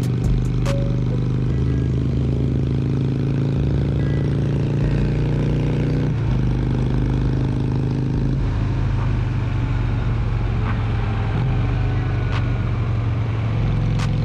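Harley-Davidson Sportster 883's V-twin engine running steadily under way, its note shifting about six seconds in and again a couple of seconds later.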